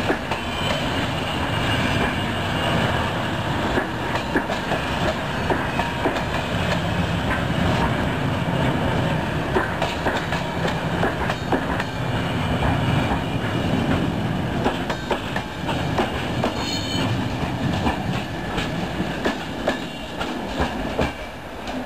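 Passenger coaches of a train rolling past, their wheels clattering over the rail joints in an irregular clickety-clack, with a brief high wheel squeal about three quarters of the way through.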